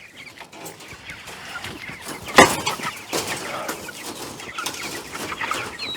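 Young Cornish cross meat chickens clucking and peeping, with a single sharp knock about two and a half seconds in.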